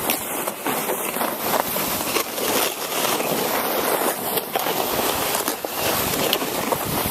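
A sled sliding fast down a packed snow run: a steady scraping rush broken by frequent small knocks and jolts, with wind buffeting the microphone.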